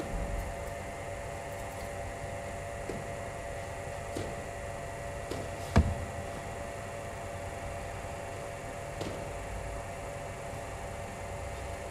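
Steady machine hum made of several even tones, with a few faint knocks and one sharp, louder knock about six seconds in.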